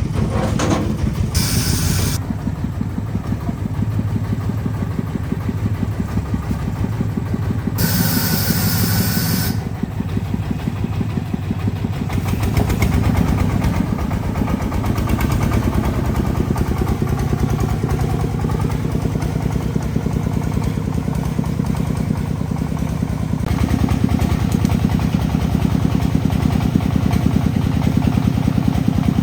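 A truck's engine running steadily with an even low chugging pulse. Two short hisses break in, about two seconds in and again about eight seconds in.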